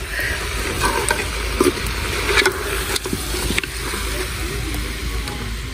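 Food sizzling in an aluminium pot over a wood fire while a metal ladle stirs it, with a few light scrapes of the ladle against the pot, over a steady low rumble.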